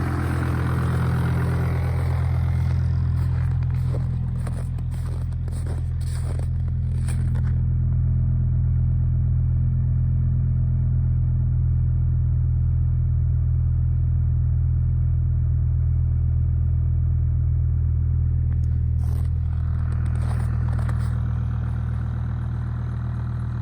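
2004 Volvo XC70 D5's 2.4-litre five-cylinder turbodiesel (D5244T) idling steadily shortly after a cold start in freezing weather. A run of sharp clicks or knocks comes a few seconds in, and another comes near the end.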